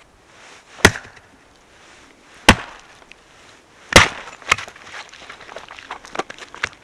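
Firewood being split: three sharp wooden strikes about a second and a half apart, then a run of quicker, fainter cracks as the wood comes apart.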